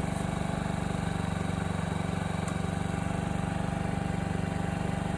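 2020 Honda Ruckus scooter's 49cc four-stroke single-cylinder engine idling steadily, left running to warm its oil.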